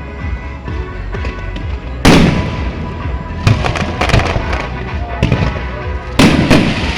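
Aerial fireworks shells bursting in a string of sharp bangs, the loudest about two seconds in and a quick pair just after six seconds, over music playing for the pyromusical show.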